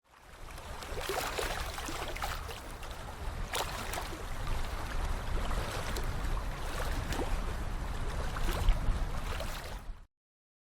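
Sea water lapping and splashing against the shore, an irregular wash with a low rumble underneath, cutting off suddenly about ten seconds in.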